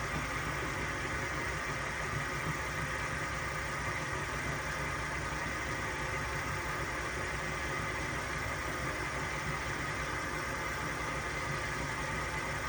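Small metalworking machine tool running steadily under its motor, a continuous hum with a steady whine above it.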